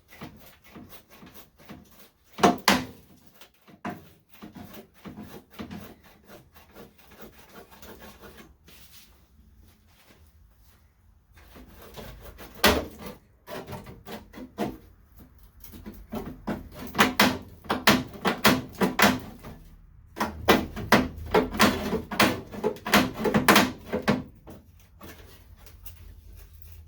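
Rusted bumper bracket on a classic Mini being rocked back and forth by hand to break it off: repeated metal knocks, rattles and scraping in spells, a loud one a couple of seconds in and long busy runs in the second half.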